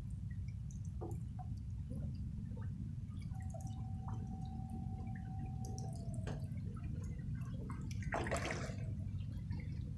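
Rain dripping, many small scattered drops over a steady low rumble. A thin steady tone sounds for about three seconds in the middle, and a short rush of noise comes about eight seconds in.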